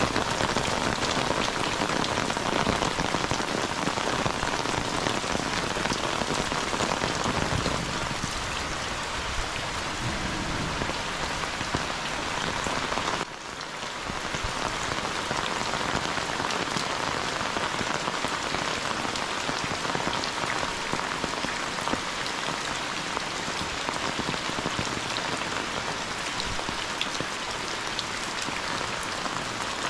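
Heavy rain falling steadily, a dense even noise with one sudden brief dip about halfway through.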